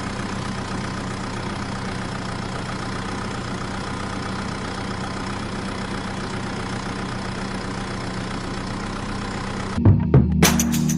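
Small motor of a DIY model tractor rice mill running steadily at an even speed, with a low hum under a steady hiss. Background music comes back in near the end.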